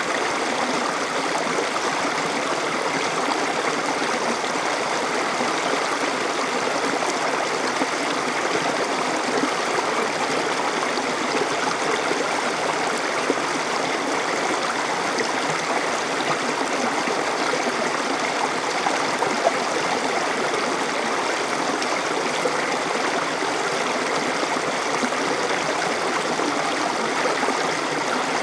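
Stream flowing steadily over rocks, a continuous even rush of water with gurgling.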